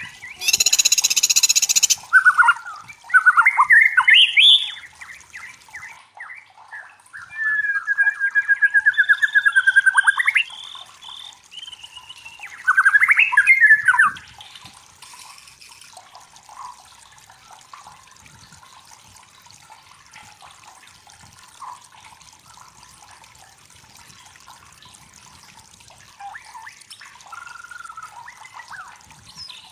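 White-rumped shama (murai batu) singing loud, varied phrases. A harsh rasping note comes near the start, followed by whistled runs and a fast trill. About halfway through the song drops away to faint chirps over a soft hiss.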